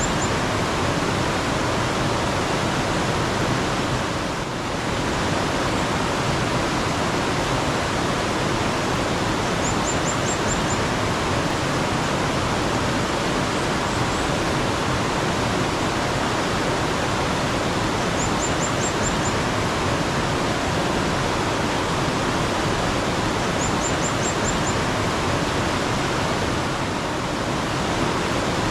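Flowing mountain water, a steady rushing. Over it a small bird gives short runs of about five quick high chirps, a few times, several seconds apart.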